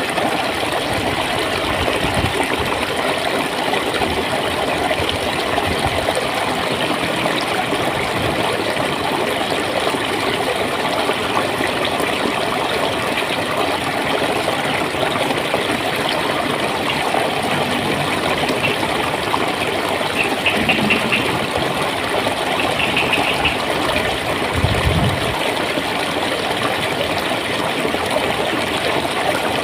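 Clear stream water flowing and gurgling steadily. Two short bursts of rapid high-pitched twittering come about two-thirds of the way through.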